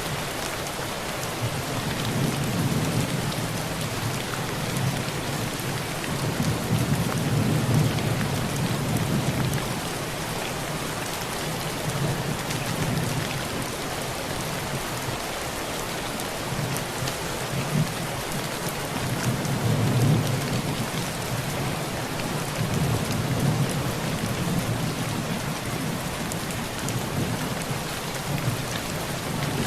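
Heavy rain pouring steadily on a tin roof, a dense patter of drop hits. Low rolling thunder swells and fades several times underneath.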